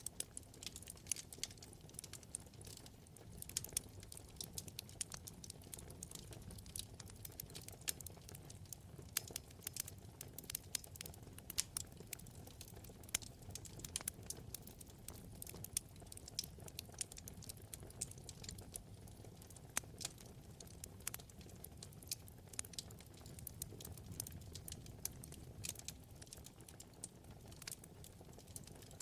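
Wood fire burning, with many irregular sharp crackles and pops over a soft steady low rush of flame.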